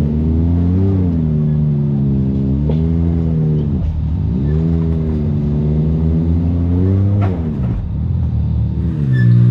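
Side-by-side UTV engine revving up and down repeatedly under changing throttle, with a sharp rev flare about seven seconds in and a brief drop right after.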